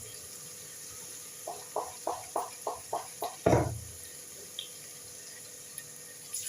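Water splashing in a vessel: a quick run of about eight light splashes, about four a second, then one heavier splash.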